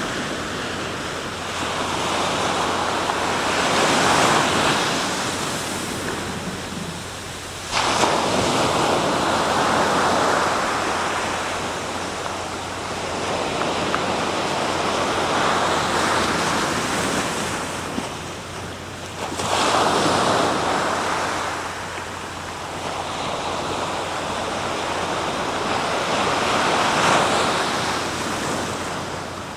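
Sea surf: waves breaking and washing on the shore in slow surges that rise and fall every few seconds. A wave crashes suddenly about eight seconds in, and another just before twenty seconds.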